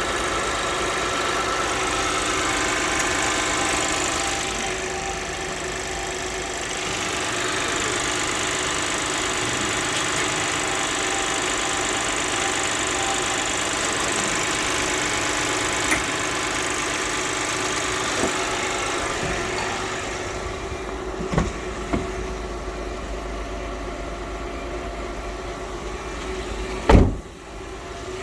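Toyota Mark X's 4GR-FSE 2.5-litre V6 running steadily at idle. A few sharp clicks and one loud thump near the end.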